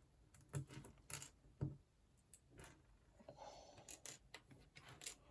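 Small plastic building-block pieces clicking faintly against each other and the desk as they are handled and sorted, with a brief rustle a little past the middle.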